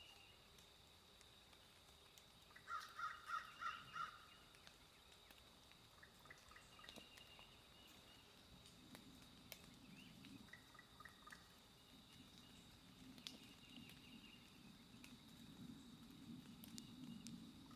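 Quiet woods with faint distant birds calling. A few seconds in, one bird gives a louder series of about six quick, harsh calls.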